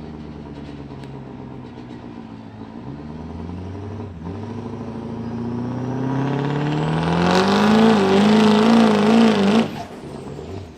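Dodge diesel pickup's Cummins straight-six engine idling, then winding up under full load pulling the sled, its note climbing for several seconds and wobbling at the top before it is cut off abruptly near the end.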